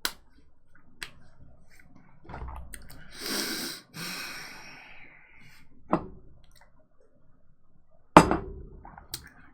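Quiet room with a few scattered sharp clicks and a breathy rush of noise about two to four seconds in.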